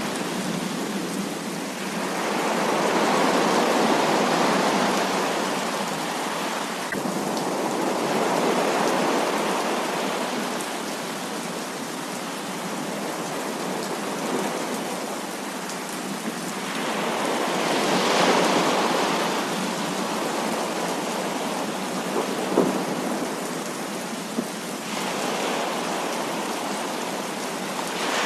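Heavy rain falling steadily, with rolls of thunder swelling and fading several times. Two brief sharp taps come late on.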